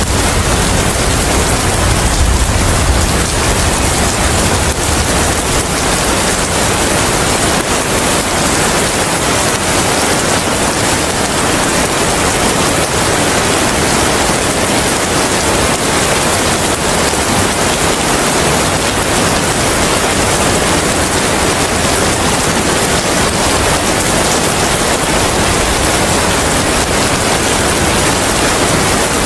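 Steady, heavy rain, one even hiss with no break. A low rumble at the start dies away over the first few seconds.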